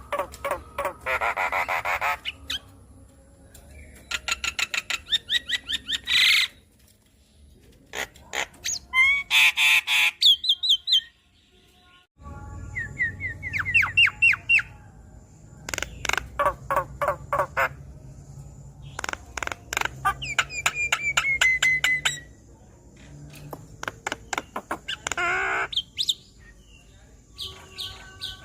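Javan myna singing a varied, energetic song: fast rattling runs of clicks, chattering phrases and rising and falling whistled notes, broken by harsh squawks. It mixes in imitated calls.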